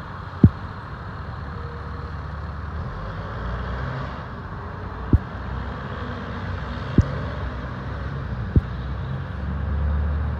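Fire engine driving on the road without a siren, its engine rumble growing louder near the end as it approaches. A few short, sharp low thumps cut through it.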